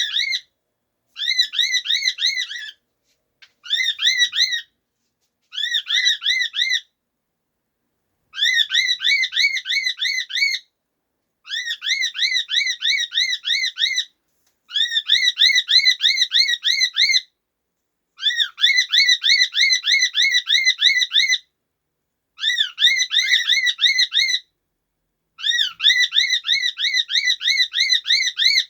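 Cockatiels whistling: repeated phrases of quick, warbling whistled notes, several notes a second, each phrase lasting a couple of seconds with short pauses between.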